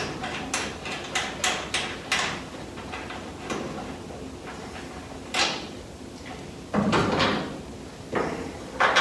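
Shop handling noises: a quick run of light knocks and clicks, then a few louder clattering, scraping sounds of parts being moved about.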